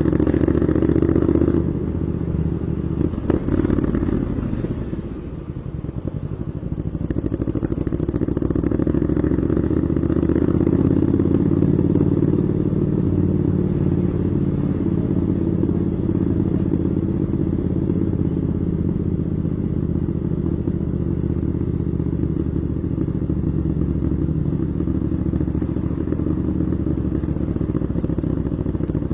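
Royal Enfield Classic 350's single-cylinder engine running steadily, with a brief drop in level about five seconds in.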